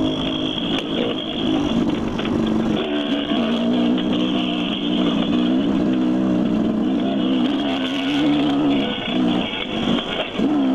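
Dirt bike engine running while riding a trail, its pitch rising and falling with the throttle.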